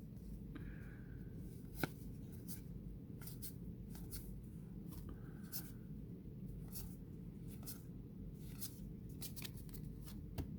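Baseball trading cards being flipped through by hand: faint slides and light clicks of card stock, with one sharper click about two seconds in, over a low steady hum.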